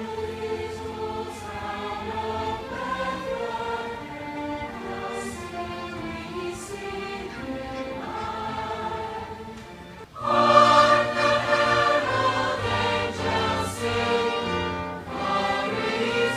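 Large choir singing Christmas music with an orchestra, in long held chords; the music swells louder about ten seconds in.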